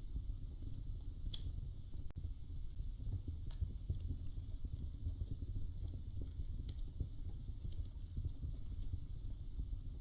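Wood fire crackling in a fireplace: a steady low rumble with sharp, scattered pops every second or so.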